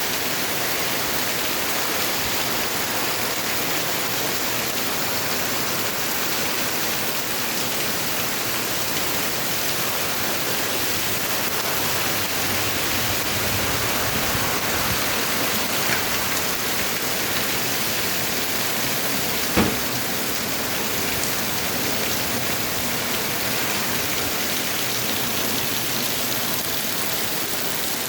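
Heavy rain falling steadily, a dense, even rush of noise. One sharp knock cuts through about two-thirds of the way in.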